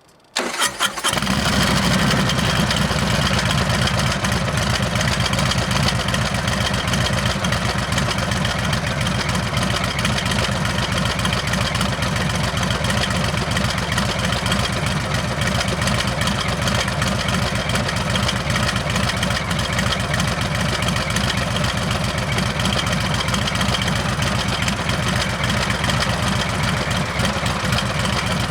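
Harley-Davidson Heritage Classic's Milwaukee-Eight V-twin with a Rinehart exhaust being started: a brief crank that catches within about a second, then a steady, loud idle.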